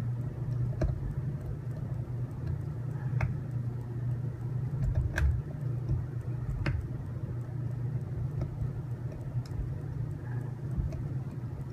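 Steady low hum with a few sharp clicks and taps as small robot-kit parts are handled and taken apart.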